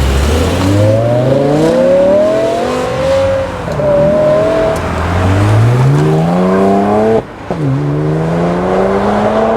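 A BMW M car's engine accelerating hard through the gears. The revs climb steadily, cut sharply at a shift about seven seconds in, then climb again.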